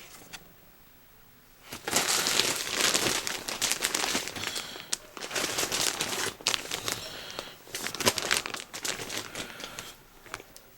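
Packaging crinkling and rustling as it is handled, starting about two seconds in and going on in irregular spurts until shortly before the end.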